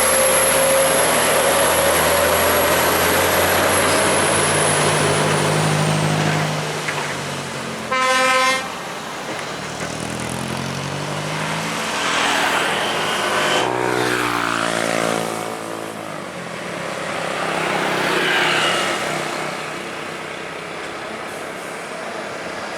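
Heavy trucks driving past, their engines rising and falling as they go by, with one short horn toot about eight seconds in.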